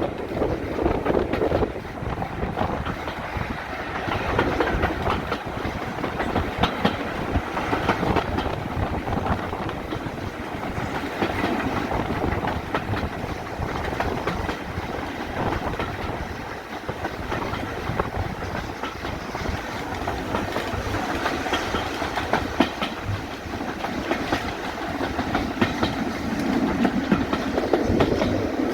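Heritage railway carriage running along the line behind a steam locomotive: steady rolling noise from the wheels on the track, with an irregular clickety-clack as they pass over rail joints.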